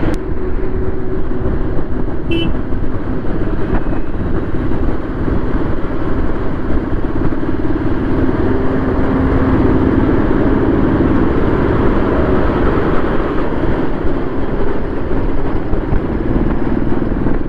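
Royal Enfield Classic 350 single-cylinder engine running steadily while riding at road speed, mixed with loud wind and road noise. A brief high-pitched beep sounds about two seconds in.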